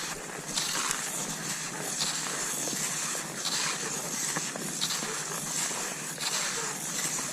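Cross-country skis gliding and scraping over snow in a steady stride, a hissing swish roughly every three quarters of a second.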